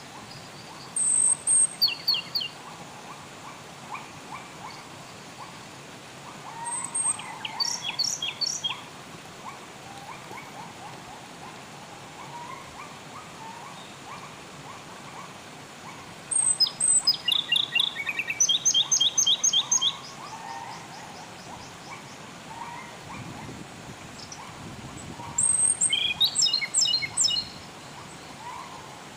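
Songbird singing in four loud bursts of rapid repeated notes a few seconds apart, over a steady hiss of flowing water and fainter bird chatter.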